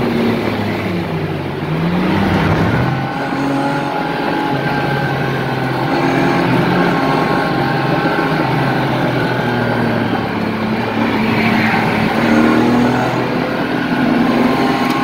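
BMW M50 straight-six engine of an E30 heard from inside the cabin on track, its revs dipping about a second in and picking up again around two seconds in, then running fairly steadily under way.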